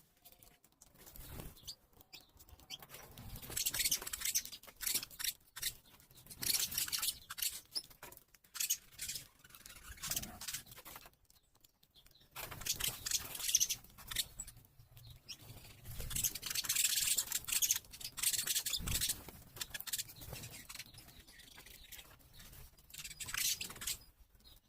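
Birds moving about, with irregular rustling, fluttering and clicking that comes and goes, and no clear song.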